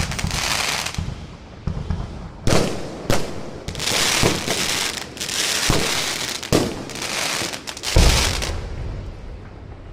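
Aerial fireworks going off: a string of sharp bangs, each followed by a long crackling fizz as the shells burst. The loudest bang comes about eight seconds in, and the crackle fades out near the end.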